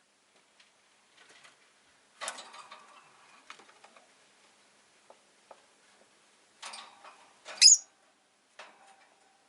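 Rosy-faced lovebird making a few short, irregular chirps and clicks, with one sharp, loud high chirp about three-quarters of the way in.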